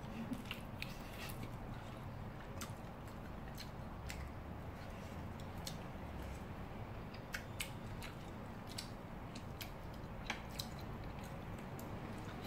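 Someone eating cooked mussels: chewing and mouth sounds, with a dozen or so irregular small clicks from handling the shells and food.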